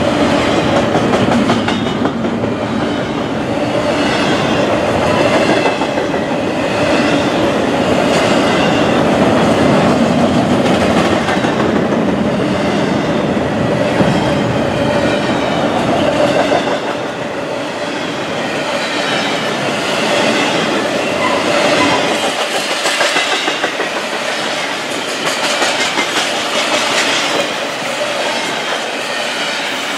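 Double-stack intermodal freight train's loaded well cars rolling past: a continuous rumble of steel wheels on the rails with rhythmic clicking over the rail joints, the deep low rumble thinning out in the second half.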